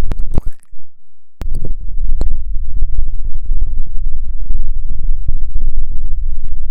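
Close, loud scratching and rubbing right against the microphone, a dense crackle with a heavy low rumble and scattered sharp clicks. It briefly drops away about a second in before starting again.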